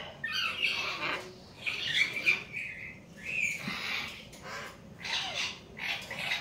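Hill myna giving a run of harsh squawking calls, about one every second.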